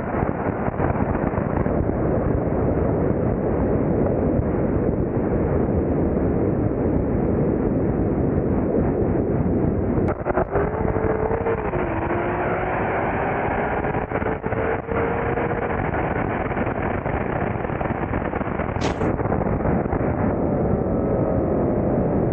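Car running hard with heavy wind noise, a loud steady rush, with a pitched engine note that climbs slowly through the middle as the car accelerates.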